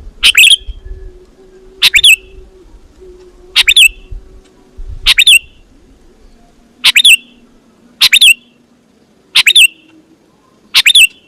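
A bird, billed as a talking bird, giving a short, sharp, sweeping call over and over, about once every second and a half, eight times.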